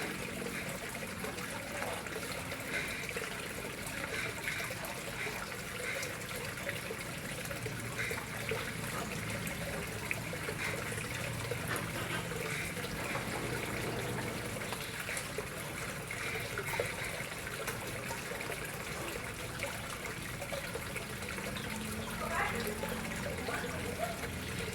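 Water flowing and trickling steadily into a koi pond.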